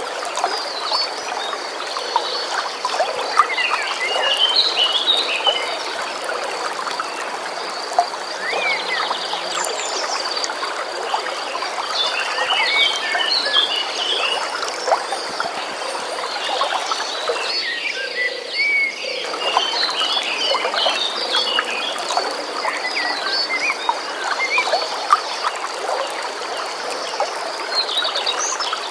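A stream running steadily, with many short bird chirps and a continuous high pulsing trill over it. The water noise dips briefly a little past halfway.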